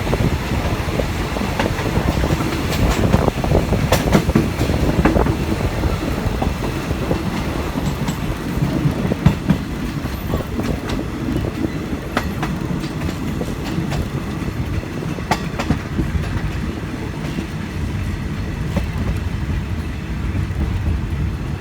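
Passenger train running along the track: a steady low rumble with irregular sharp clicks of the wheels over the rail joints.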